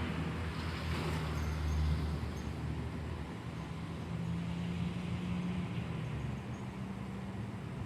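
Rain falling steadily during a thunderstorm, with a low steady hum of road traffic underneath that shifts in pitch about three seconds in.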